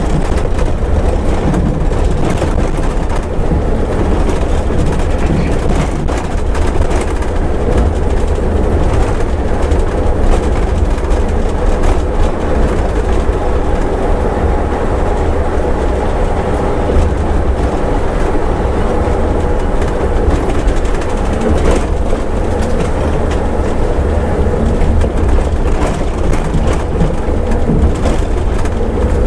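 Scania bus running steadily on the highway: a constant low engine and road rumble with a faint steady hum.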